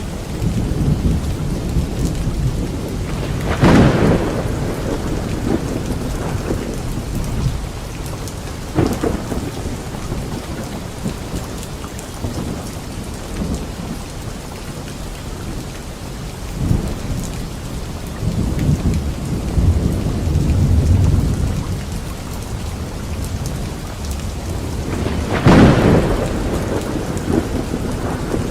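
Steady rain falling during a thunderstorm, with a loud thunder crack about four seconds in and another near the end, and low rolling rumbles in between.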